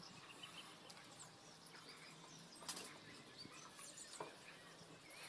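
Near silence with faint, high, short chirps scattered throughout and a few soft clicks, one a little louder about two and a half seconds in.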